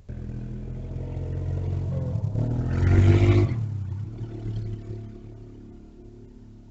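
A motor vehicle's engine passing by, growing louder to a peak about three seconds in, then fading away.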